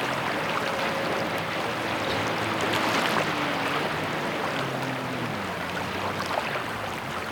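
Steady rain falling, an even hiss, with a faint low tone wavering up and down underneath near the middle.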